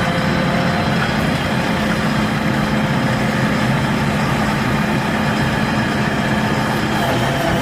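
Backhoe loader's diesel engine idling steadily, an even low hum.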